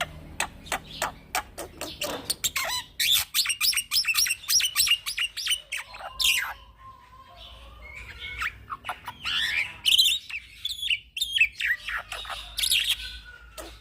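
Young black-winged myna (white starling) singing a long, varied song: sharp clicks at first, then fast chattering, whistled notes and harsh squawks with short pauses.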